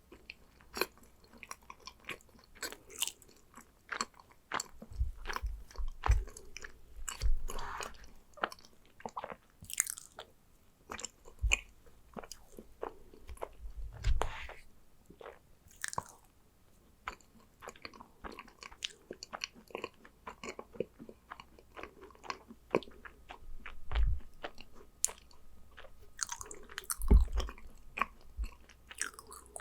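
Close-miked chewing and biting of yakgwa, Korean fried honey cookies soaked in syrup: irregular wet mouth clicks and soft crunches. A few heavier bites stand out, about five seconds in, near the middle, and twice near the end.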